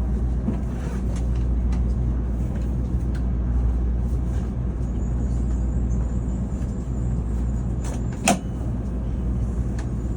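Tokaido Shinkansen train running with a steady low rumble, and a single sharp click or knock about eight seconds in.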